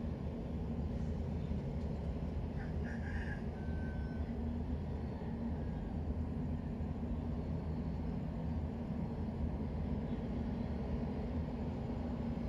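Steady low ambient rumble, with a few brief high chirps about three seconds in.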